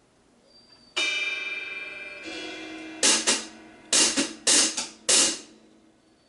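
Drum kit cymbals: one cymbal struck about a second in and left to ring and fade, another joining softly, then a quick run of about five short, bright cymbal hits.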